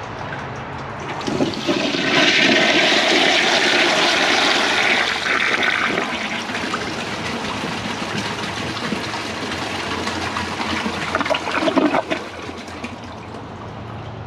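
A 1999 Western Pottery toilet with a high bucket tank flushing: a rush of water swells about a second and a half in, is loudest for the next few seconds, then runs on steadily. There is a brief louder surge about twelve seconds in, and then the flow eases off.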